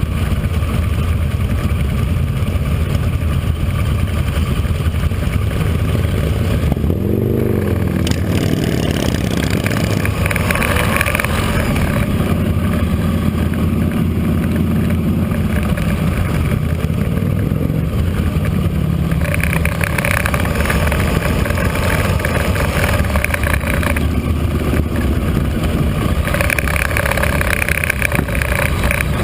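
Motorcycle engines running with a steady low rumble, and a bike revving, its pitch rising and falling, about seven seconds in.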